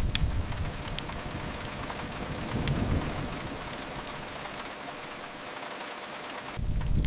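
Steady rain hiss mixed with the sharp, scattered crackles of a wood fire. A low rumble fades away early on, swells briefly about three seconds in, and comes back strongly near the end.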